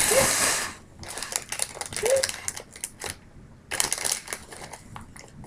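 Plastic pouch of cat treats crinkling and rustling as it is handled and opened, in three bursts of crackling.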